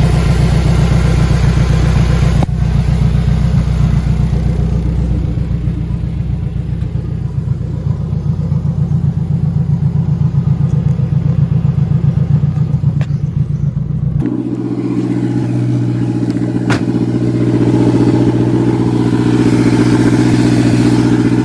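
Car engine running with a rapid low pulsing. About two-thirds of the way through it changes abruptly to a steadier, higher hum.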